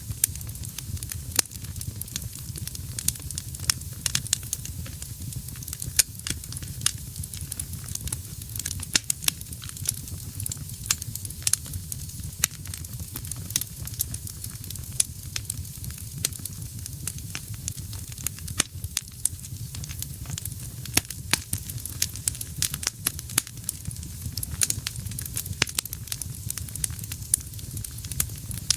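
Wood fire burning in a fireplace: frequent sharp, irregular crackles and pops over a steady low rumble of flames.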